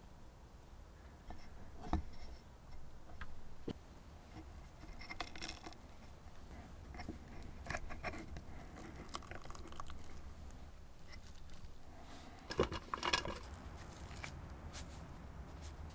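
Small handling noises: scattered rustles, scrapes and light knocks, with a short cluster of louder clicks about twelve and a half seconds in, over a steady low rumble.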